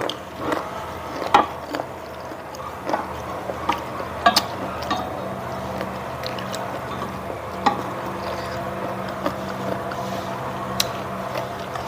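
Eating and food-handling sounds: scattered light clicks and taps, a few sharper ones, over a steady low hum.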